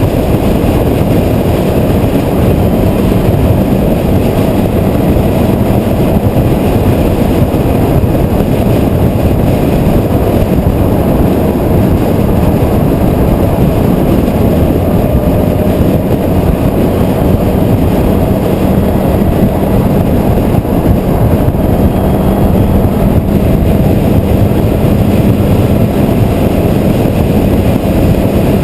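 Steady, loud engine and road noise of a car travelling at highway speed, heard from a camera mounted on the car, with a faint hum that comes and goes.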